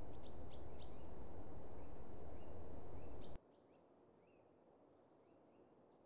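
Small birds chirping in short, repeated calls over a steady hiss and rumble of distant traffic. About three and a half seconds in, the background noise drops away almost completely and only faint chirps remain, as the recording switches to a DJI Mic 2 with noise reduction on.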